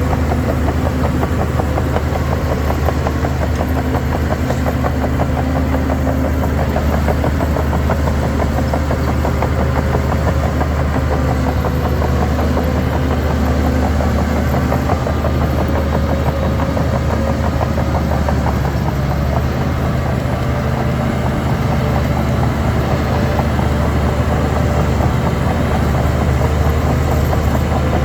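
Shantui DH17 C3 bulldozer's diesel engine running at a steady, unchanging pitch.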